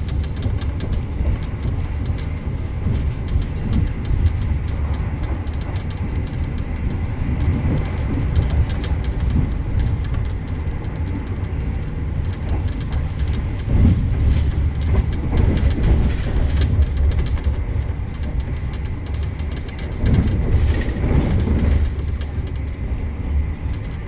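Argo Bromo Anggrek passenger train running, heard from on board: a steady low rumble with light clicks and rattles over it.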